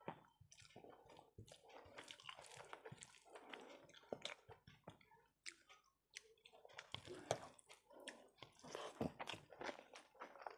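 Faint close-miked chewing of a rice and curry meal, with wet mouth clicks and smacks, broken by a short pause a little past halfway. Fingers mix rice on the plate.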